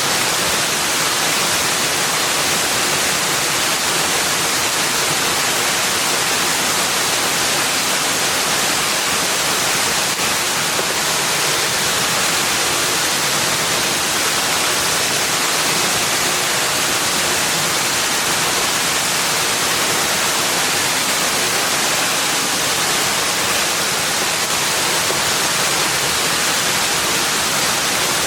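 Steady, even rush of flowing water with a bright hiss, unchanging throughout, with no birds or other separate sounds standing out.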